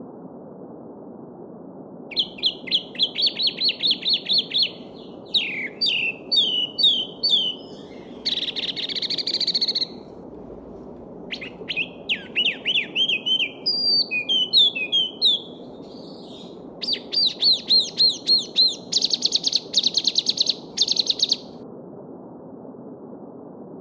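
Small birds singing in a run of separate phrases: fast repeated chirps, down-slurred whistled notes, a buzzy phrase and a quick trill near the end. Underneath, a stream babbles steadily.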